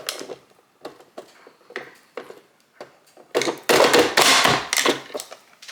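Vegetable chopper being pressed shut on cut vegetables. A few light clicks and knocks come first, then a quick run of loud clacking chops about three and a half seconds in.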